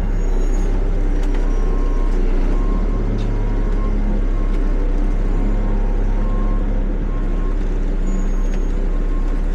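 Peterbilt 520 garbage truck's diesel engine running steadily at low speed while reversing, with its backup alarm beeping repeatedly over the engine.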